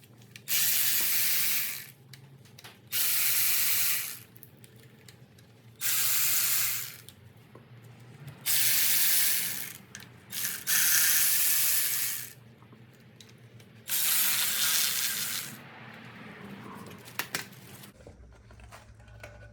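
Pneumatic air ratchet run in six short bursts of about one and a half to two seconds each, the air hiss and ratcheting stopping and starting between them.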